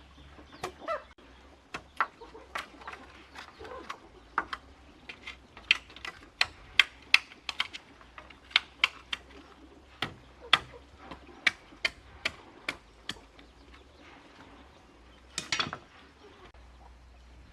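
A series of sharp, irregular knocks, several a second at their busiest, with a louder, longer rattling knock near the end.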